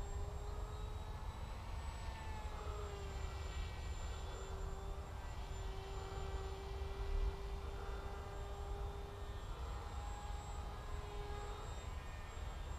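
Electric brushless motor and propeller of a Bixler RC foam plane in flight, giving a steady droning whine whose pitch shifts a little and briefly dips as the throttle changes, over a low rumble.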